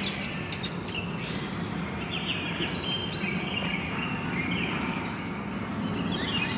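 Birds chirping, many short high chirps one after another, over a low steady background hum.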